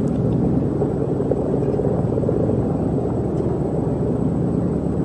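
Steady low machine rumble, like a running motor, with a faint thin high-pitched whine over it.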